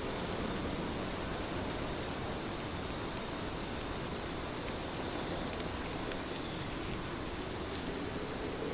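Heavy rain falling steadily, a dense even hiss with scattered ticks of individual drops.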